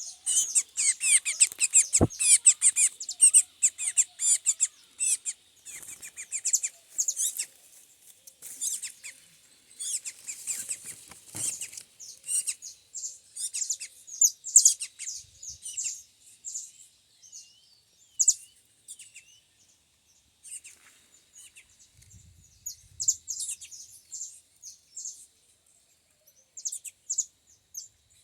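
Small songbird chirping and twittering in quick high notes, dense at first and thinning to scattered calls in the second half. A single sharp click about two seconds in.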